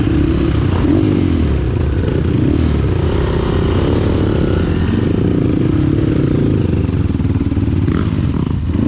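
Trail motorcycle engine revving, its pitch rising and falling repeatedly.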